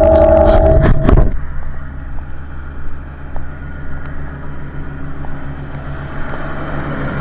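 1968 Minneapolis-Moline G900 LP tractor engine running. A loud, steady high whine over it cuts off about a second in, leaving the engine at a lower, quieter run, which builds slightly again near the end.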